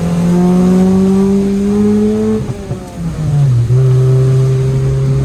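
Car engine pulling hard, its pitch climbing slowly for about two and a half seconds. The revs then drop briefly and settle lower, holding steady to the end.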